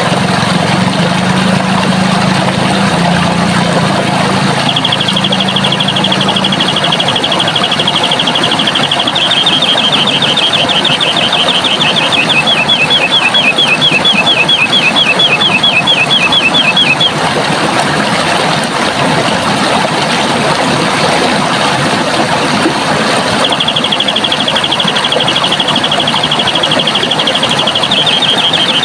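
Steady rushing of running water, with a small bird singing a fast, high trill: one long trill of about twelve seconds starting about five seconds in, which shifts to a lower, choppier second part, and another trill starting near the end. A faint low hum sits under the water in the first few seconds.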